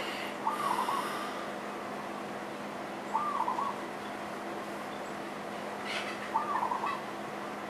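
A bird's short call, repeated three times about three seconds apart, over a faint steady hum.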